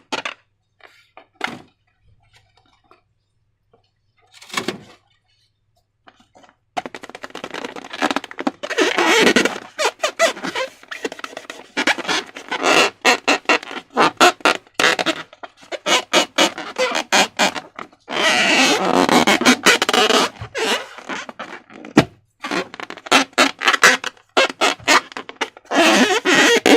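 Slime and balloons being handled: a few scattered taps and thunks, then about seven seconds in a dense, irregular run of wet clicks and crackles in clusters as the slime is worked.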